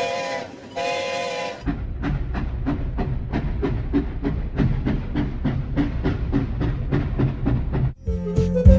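Steam locomotive whistle blowing two short toots, then the engine chuffing steadily at about three beats a second. Music comes in near the end.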